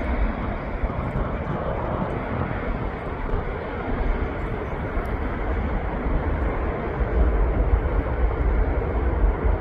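Steady roar of a departing Emirates Airbus A380's four jet engines, with wind rumbling and buffeting on the microphone.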